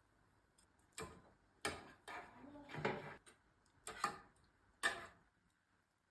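Kitchen work sounds: about five irregular sharp clicks and knocks, with a short cluster of handling noise in the middle.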